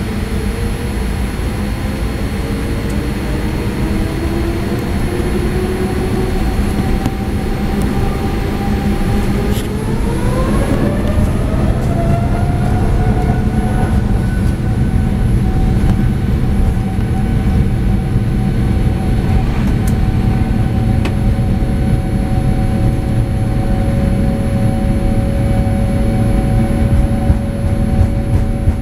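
Boeing 787 jet engines heard from inside the cabin on the takeoff run: a heavy steady rumble, with engine whines that rise in pitch about eight to twelve seconds in as the engines spool up to takeoff thrust, then hold steady while the rumble grows.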